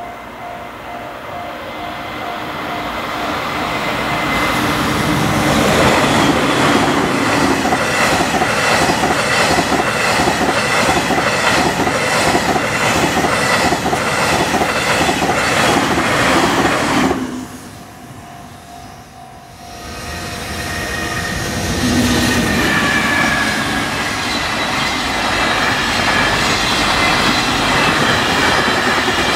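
A train approaching and passing over a level crossing at speed, its wheels clattering in a fast steady rhythm over the rail joints, with the crossing's warning bell ringing. The first train ends abruptly about 17 seconds in, and after a short lull a long container freight train starts passing with the same clatter about 20 seconds in.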